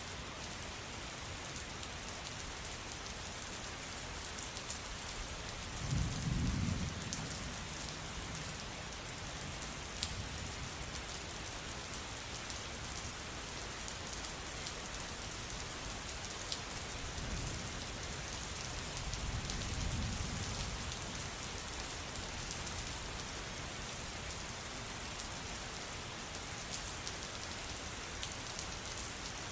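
Steady rain falling, with small sharp drop ticks, and low rumbles of thunder twice: a short one about six seconds in and a longer, swelling one later on.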